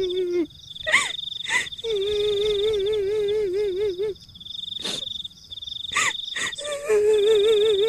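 Horror sound-effect track: a high, wavering wail held for a couple of seconds at a time, the kuntilanak crying effect, over a steady insect trill. A few short, sharp yelps break in, about a second in and again around five and six seconds.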